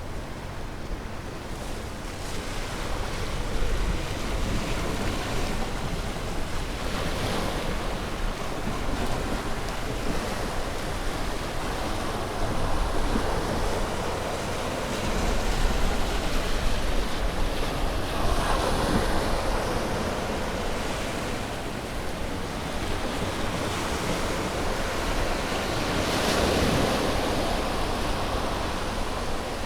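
Ocean waves breaking and washing up a beach, the surf swelling and easing every few seconds in a continuous rush, with wind on the microphone.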